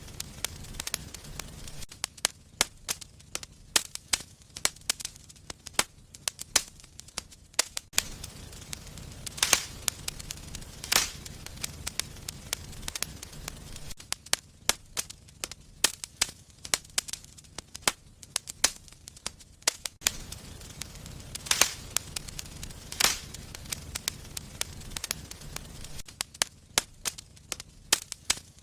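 Wood fire burning in a fireplace, crackling continuously with frequent sharp pops and several louder snaps, over a low rumble of flames that comes and goes.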